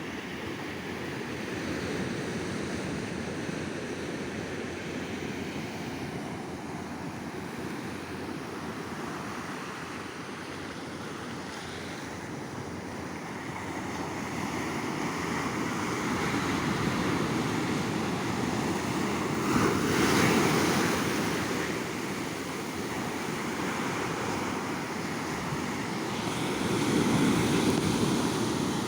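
Sea surf on a beach: waves breaking and washing in a continuous roar of water, with a louder wave breaking about two-thirds of the way through and another near the end.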